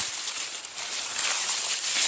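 Steady high-pitched insect chorus buzzing outdoors, with light rustling and scattered clicks in the foliage.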